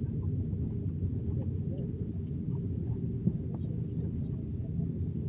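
Steady low rumble of an Airbus A330-900neo's passenger cabin as the airliner moves on the ground after landing, with one short click a little past three seconds in.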